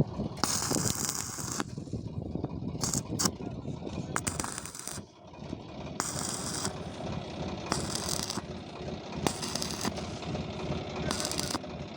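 Electric arc welding crackling in about seven short bursts of half a second to a second each, as welds are laid on a pipeline joint, over a steady low rumble of running machinery.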